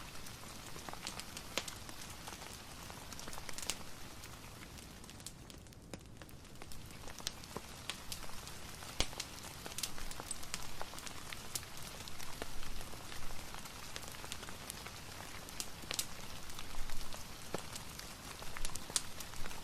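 Steady rain with a fireplace crackling, scattered sharp pops and clicks throughout.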